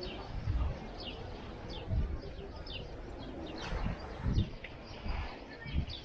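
Small birds chirping over and over, with short, high, falling chirps, mixed with several low thumps.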